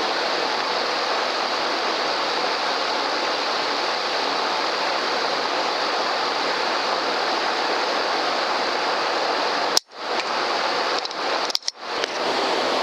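A loud, steady rushing noise that starts suddenly. It is broken twice near the end by brief dropouts, the first of them opening with a sharp click.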